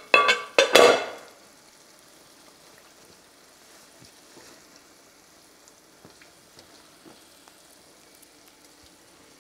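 Chicken-and-egg kuku batter frying in hot oil in a nonstick pan: a quiet, steady sizzle with occasional small ticks as a plastic spoon spreads the mixture. A brief louder burst of noise comes in the first second.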